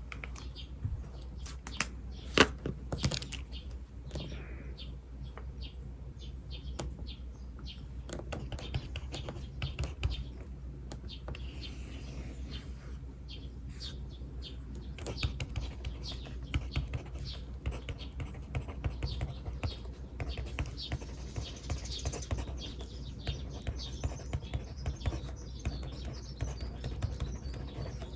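Pen writing on paper: short scratchy strokes and taps, one sharper tap about two and a half seconds in, over a low steady hum. Birds chirp faintly in the background.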